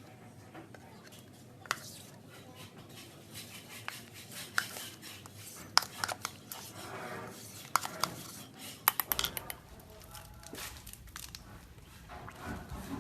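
Irregular sharp clicks and knocks, like small objects handled and set down, with faint voices at times.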